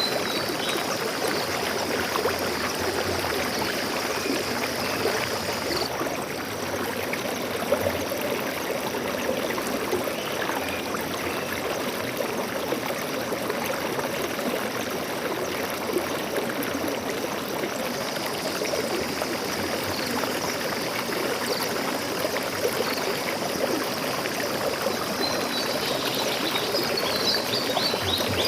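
Stream water flowing and trickling steadily, with a few faint high bird chirps near the end.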